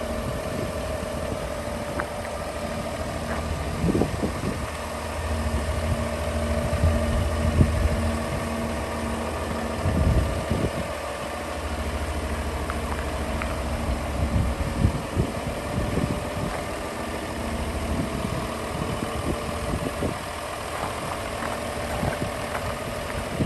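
2014 Fendt 828 Vario tractor's six-cylinder diesel engine idling steadily, with irregular short thumps over it. The low engine hum drops away about two-thirds of the way through.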